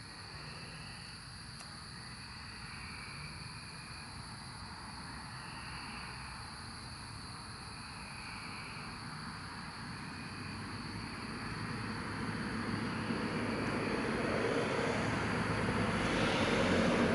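Periodical cicadas calling: a steady high-pitched drone with short repeated calls at a lower pitch. Over the second half a rumbling noise builds and becomes the loudest sound near the end, like an approaching vehicle or aircraft.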